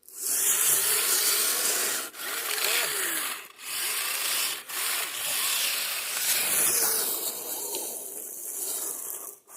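Kyosho Blizzard RC snowcat's tracks churning through snow in a steady hiss, cutting out briefly a few times as the throttle is let off. Its small electric motors whine up and down in pitch underneath. The tracks slap against the running boards on the underside of the body.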